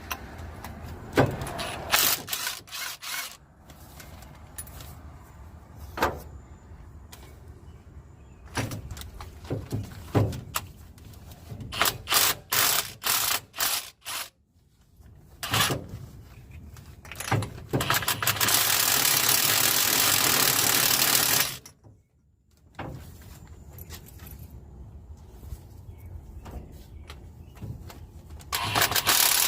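Hand tools working on the spark plugs of a 1965 Mustang engine: a run of sharp ratchet clicks and metal clanks. A steady, loud tool noise runs for about three and a half seconds past the middle and starts again near the end.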